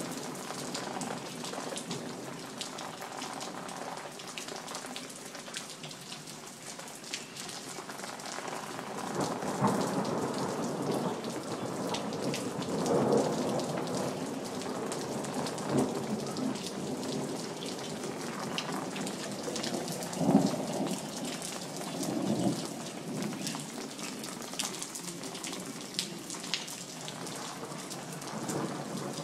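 Heavy thunderstorm rain falling on hard surfaces, with a steady hiss and many individual drops ticking. Thunder rumbles in several rolls over it, the loudest about twenty seconds in.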